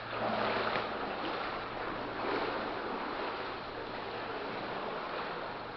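Wading through shallow standing water in a concrete tunnel: steady sloshing and splashing from legs in rubber overshoes pushing through the water, swelling with each stride.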